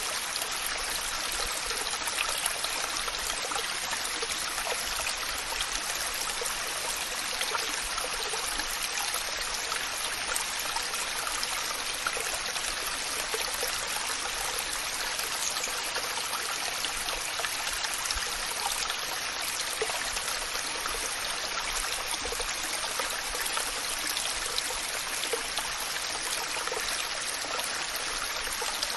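Waterfall: falling water splashing and rushing as a steady, even hiss with fine splashy detail.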